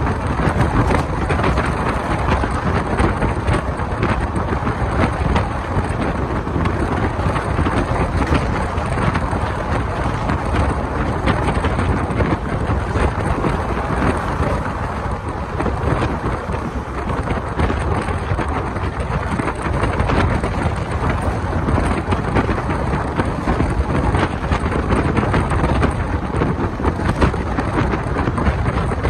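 Passenger train running at speed, heard from an open coach window: a steady rumble of wheels on the rails, dense with fine clicks, under heavy wind buffeting the microphone.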